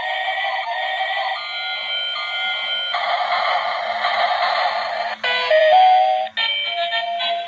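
Battery-powered toy train playing its built-in electronic tune through a small, tinny speaker with no bass: a beeping synthetic melody that switches abruptly to a different, louder phrase about five seconds in.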